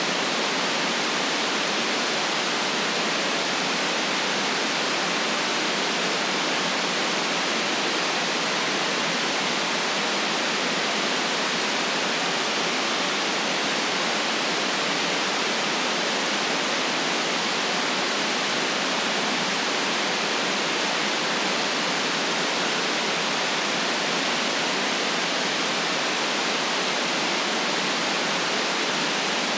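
Generated white noise: a steady, even hiss that does not change, with almost no deep rumble under it.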